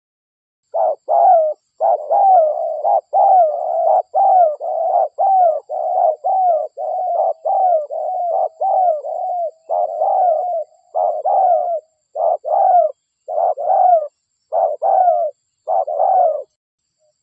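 Spotted dove (derkuku) cooing: a long run of short coos, a little over one a second, each bending up and then down in pitch. The coos start about a second in and stop shortly before the end, spacing out slightly in the last few seconds.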